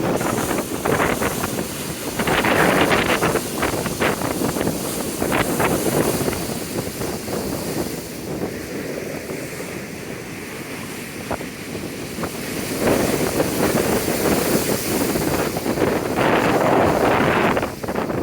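Large waves breaking on the Lake Erie shore in a gale, with strong wind buffeting the microphone. The noise surges and eases, quieter around the middle and building up again toward the end.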